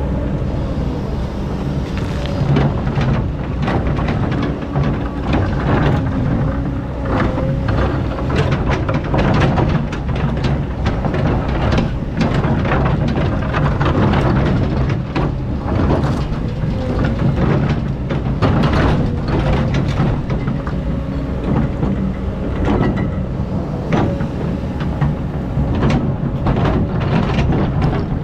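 Excavator engine running steadily under load, with frequent clanks and scrapes from the bucket digging sand.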